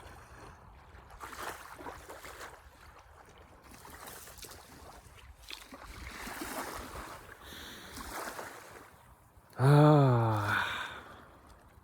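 Soft, uneven sound of sea water. About ten seconds in, a loud, drawn-out wordless 'aaah' from a person's voice, its pitch wavering.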